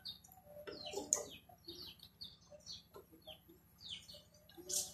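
Birds chirping: many short, falling high chirps scattered throughout, with a few lower clucking calls about a second in.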